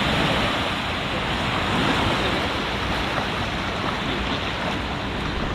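Steady rush of wind and sea water around a small boat on open water, with wind buffeting the microphone.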